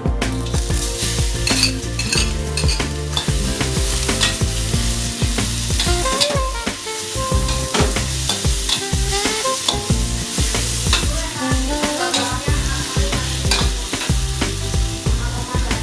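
Chopped chili and tomato mixture sizzling in hot oil in a frying pan, stirred with irregular taps and scrapes against the pan.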